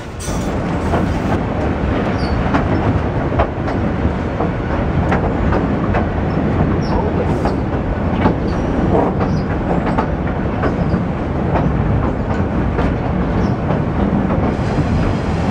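Passenger train carriage running over the steel trestle viaduct, heard from an open window: a loud, steady rumble of wheels on rails with frequent sharp clicks and clatter.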